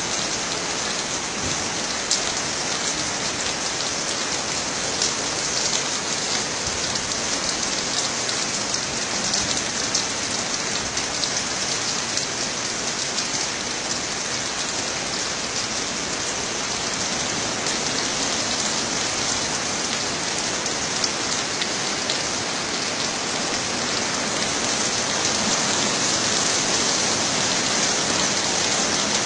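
Rain falling steadily onto a wet road and parked cars: a dense, even hiss of drops that grows a little louder in the last few seconds.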